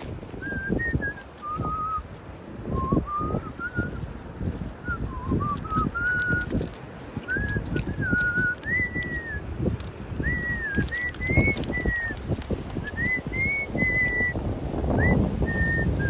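A person whistling a wandering tune, short notes stepping up and down, over irregular low thumps and rumble from walking and handling the camera outdoors.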